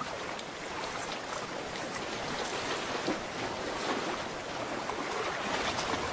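Seawater washing and trickling over a rocky shore, a steady rushing sound with a few faint clicks.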